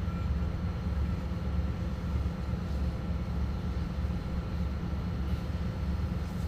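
Steady low rumble of a ship's diesel engine, with a faint constant whine above it.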